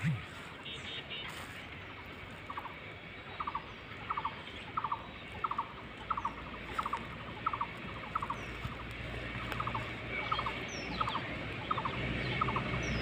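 An animal calling over and over: a short stuttering note of three or four quick pulses, repeated a little more than once a second, starting a couple of seconds in.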